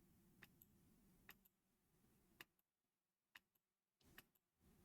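Near silence with a handful of faint, irregular clicks from a computer mouse.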